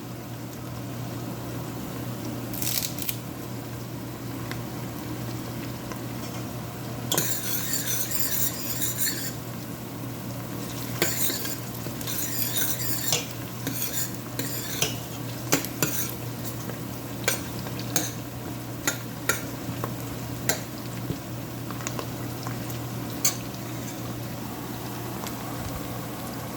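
Onions and curry leaves frying in oil and ghee in a pan, with a steady sizzle. A spoon stirs through them and taps sharply against the pan many times, most often in the second half.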